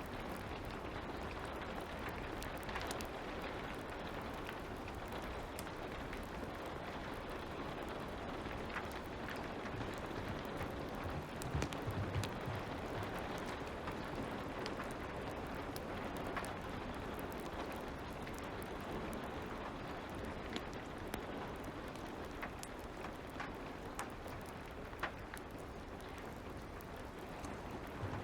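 Steady light rain with scattered small crackles and pops from a wood fire, and a few soft low thumps about halfway through.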